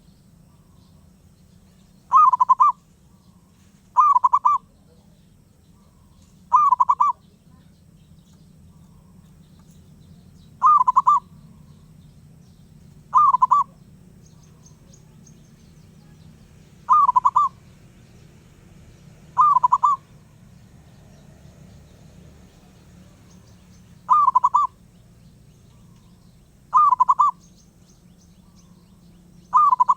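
Zebra dove (perkutut) calling over and over: about ten short, loud, trilling coos, one every two to three seconds, over a faint steady low hum.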